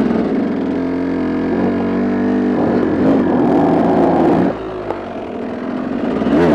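KTM dirt bike engine running under load, its pitch shifting with the throttle, easing off about four and a half seconds in before picking up again. The clutch is slipping.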